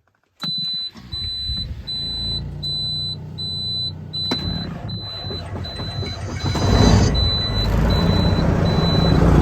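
Straight-piped pickup truck engine running with a low rumble, getting louder about seven seconds in, while a cab warning chime beeps steadily just under twice a second.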